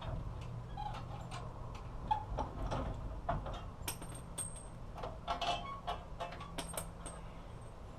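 Hand tools working the bolts on a truck's front bumper: irregular metallic clicks and taps, a few with a short high ring, over a low steady hum.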